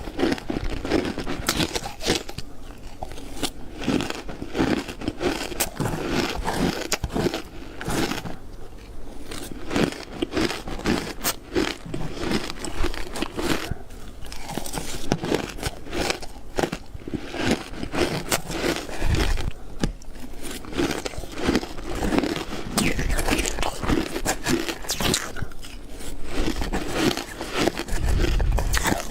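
Ice being bitten and chewed close to the microphone: dense, irregular crunching and cracking throughout.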